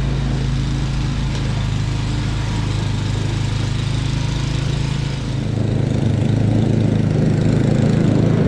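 Snowblower's small gasoline engine running, growing louder about five and a half seconds in. The owner says it is not running its best and has been hesitating and hunting after a carburetor swap.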